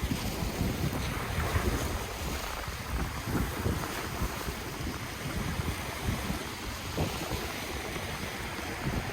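Ocean waves washing in, with wind gusting against the microphone in an uneven low rumble.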